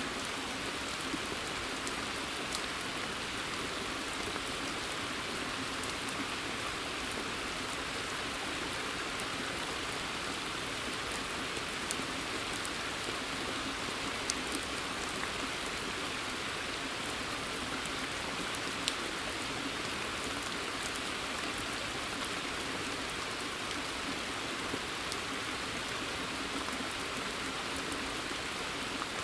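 Steady rain falling in a forest, an even hiss with now and then a single drop ticking out clearly.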